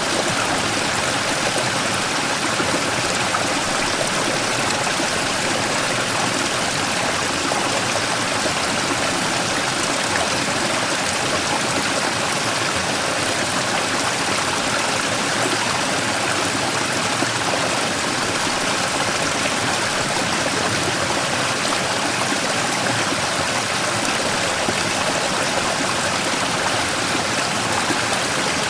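Mountain stream pouring over a large rock in a small waterfall: a steady, even rush of water that does not change.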